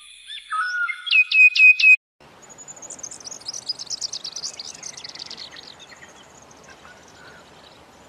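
Recorded birdsong. First come clear whistled calls: four quick notes, each sweeping sharply up and dropping back. After a short break comes a fast, high-pitched twittering of birds over a steady hiss.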